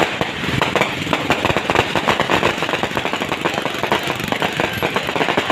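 Firecrackers going off in a rapid, continuous crackle of sharp pops, many to the second.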